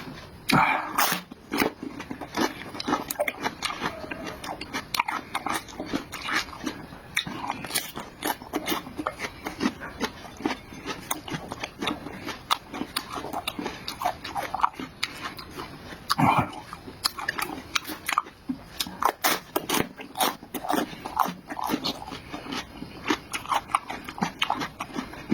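A person eating noisily: chewing and biting with many quick, irregular wet clicks and smacks, broken by a couple of short voiced sounds.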